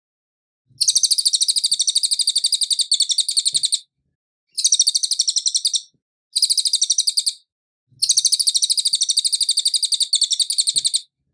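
Cililin songbird singing in four bursts of fast, high-pitched chattering trills with short breaks between them.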